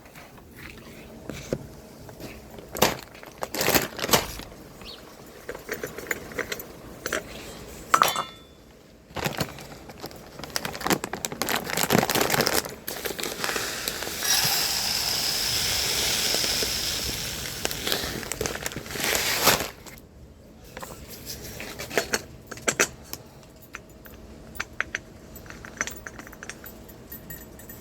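Irregular clinks, knocks and rattles of objects being handled. A steadier rushing rattle lasts about five seconds in the middle.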